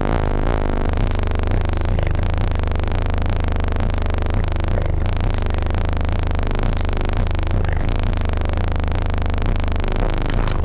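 Car audio system playing music at high volume, dominated by a steady deep bass.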